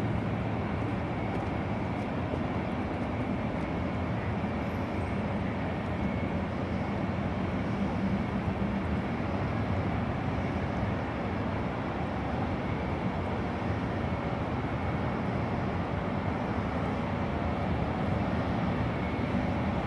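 Jet airliner engines, a steady noise with no marked rise or fall.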